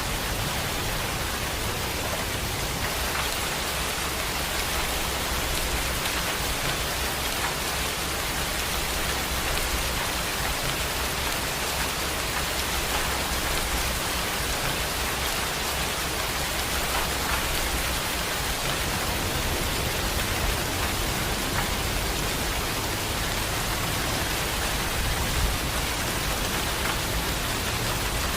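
Heavy rain pouring steadily, with a dense hiss of drops hitting surfaces.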